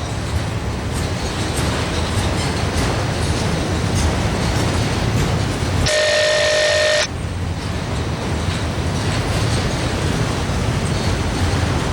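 CSX freight train running past, a steady rumble of locomotives and cars. A short steady tone sounds for about a second, roughly halfway through.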